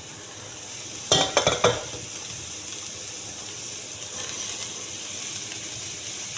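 Chicken and carrots frying in butter in a pot, a steady sizzle. About a second in comes a quick run of metal clinks and knocks against the pot.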